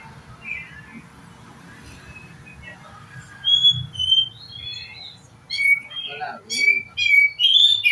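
A songbird singing in bursts of loud, clear whistled notes and short chirps, starting about three seconds in and coming faster near the end.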